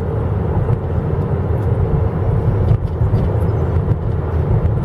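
Steady road and engine noise heard from inside a moving car's cabin: a continuous low rumble.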